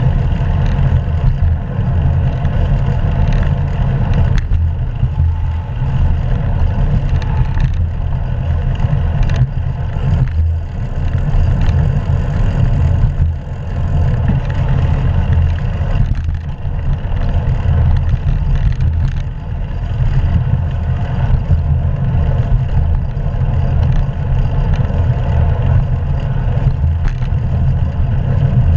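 Wind buffeting a GoPro action camera's microphone while riding a bicycle: a loud, steady, deep rumble with road and tyre noise under it.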